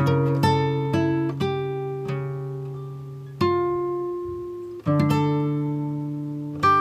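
Background music: plucked acoustic guitar playing single notes and chords that ring out and fade, a new chord struck about three and a half seconds in and again near five seconds.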